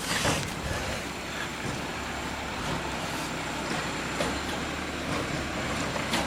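Garbage truck running steadily, with a short burst of noise just after the start and a few clanks later on.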